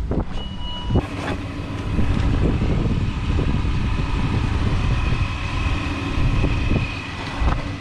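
2010 Ford Explorer idling while parked, heard from outside beside the vehicle, with a short beep and a click near the start.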